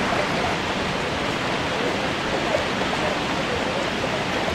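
Water of the Dzhuryn waterfall falling and rushing in a steady, unbroken noise.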